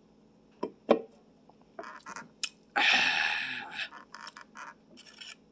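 Close-up eating sounds: two sharp mouth clicks, then wet chewing and lip smacks in short strokes, with a loud breathy vocal sound about three seconds in.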